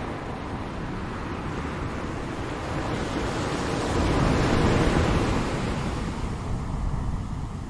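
Ocean waves washing on a shore: a steady surf rush that swells to a peak about halfway through and then recedes.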